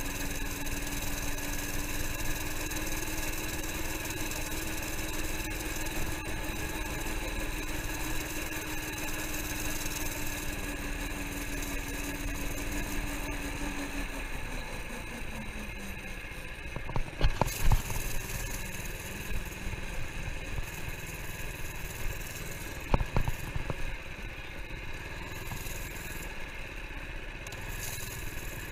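Minibike's small engine running at a steady speed, its pitch dropping about halfway through as it slows. A few sharp knocks follow, two close together and one more a few seconds later.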